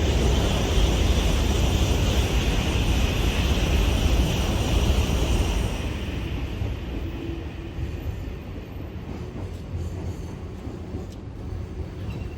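Freight train running past: a loud rumble of wheels on rail with a higher hiss above it. It fades about six seconds in as the train draws away, leaving a quieter rumble.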